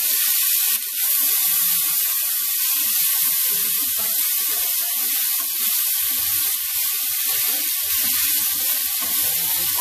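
Cubed potatoes and carrots sizzling steadily as they fry in hot olive oil in a stainless steel pot, stirred with a wooden spatula.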